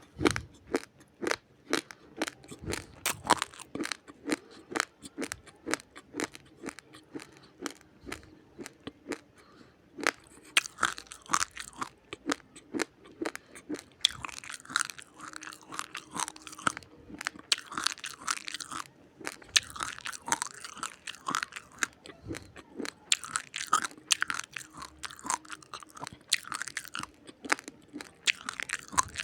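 Close-up crunching of raw, uncooked rice grains being chewed: a fast, irregular run of sharp crunches several times a second, with spells of denser crunching.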